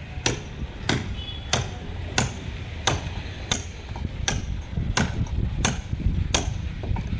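Steady hammer blows: about ten sharp strikes, evenly spaced roughly two-thirds of a second apart, stopping shortly before the end.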